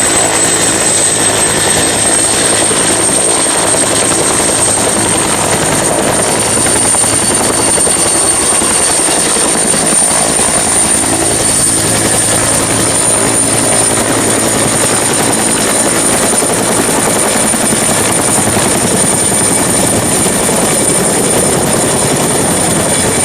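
Helicopter sound: a steady dense rotor and engine noise with a thin high turbine whine that rises slightly over the first few seconds and then holds, cutting off abruptly.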